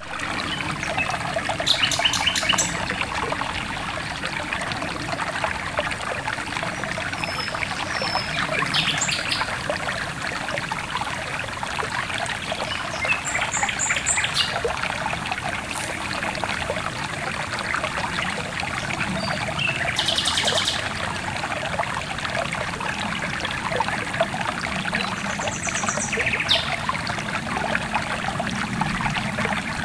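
Small stream trickling and splashing steadily over stones, with birds chirping in short bursts every few seconds.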